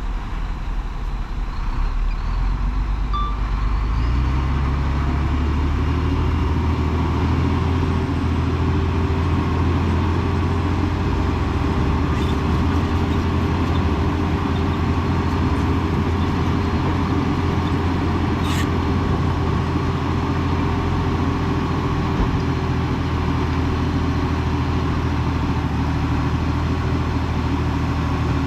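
Heavy diesel earthmoving engine running, its note stepping up about four seconds in and then holding steady; a single sharp click about two-thirds of the way through.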